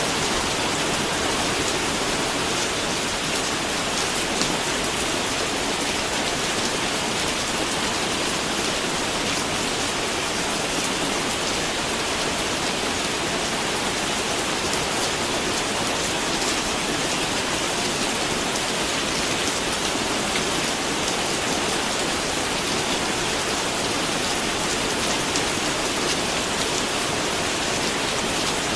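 Steady rain falling: an even, continuous hiss with many small drops pattering through it, holding the same level throughout.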